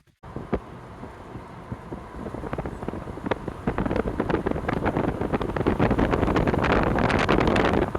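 Wind buffeting the microphone: a rumbling rush with many small crackles that swells over the first few seconds and then holds loud.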